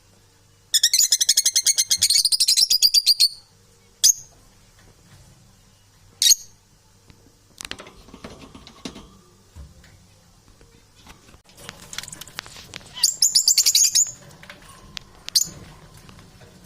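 Pet parrots calling: two bursts of rapid, shrill chattering, one about a second in and a shorter one near the end, with single sharp chirps in between.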